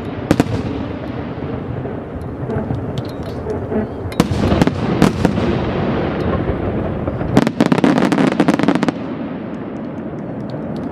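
Aerial fireworks going off over a continuous rumble, with heavy bursts about four and five seconds in and a dense flurry of crackling reports from about seven and a half to nine seconds. A camera shutter clicks repeatedly over it.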